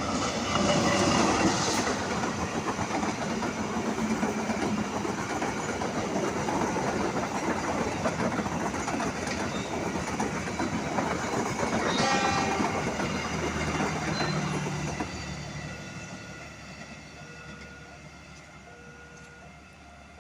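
A train passing close by: loud wheel-and-rail noise with clickety-clack for about fifteen seconds, then fading away as it recedes. Faint intermittent tones appear near the end.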